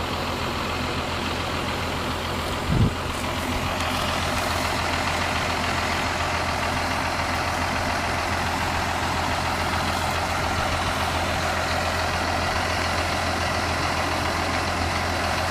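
A big tractor's engine running steadily while it takes up the tow chain, with a single sharp thump about three seconds in and the engine working a little harder from about four seconds on.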